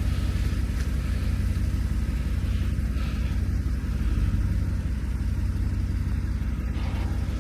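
Jeep Wrangler engine running steadily at low revs, a constant low rumble.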